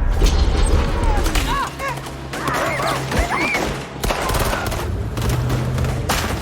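Film action-scene soundtrack: repeated gunshots and impacts over music, with short shouted cries in the middle.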